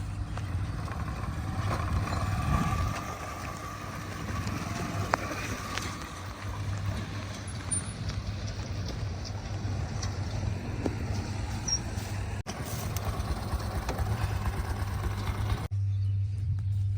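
Heavy diesel machinery (backhoe loader and tractor) running, with a steady low engine hum under rough working noise and a few clicks. Near the end the rougher noise cuts off suddenly, leaving only the low hum.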